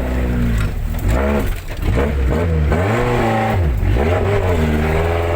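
A motor vehicle's engine revving up and down over and over, its pitch climbing and dropping every second or so as it labours over a rough, difficult farm track.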